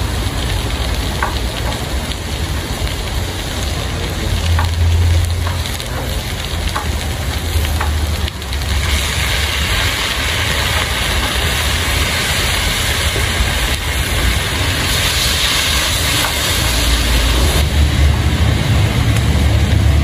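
Cabbage stir-frying in a wok over a small wood-fired stove, with a hiss that grows louder about nine seconds in as seasoning is poured into the hot pan and a few faint crackles early on. A steady low rumble runs underneath.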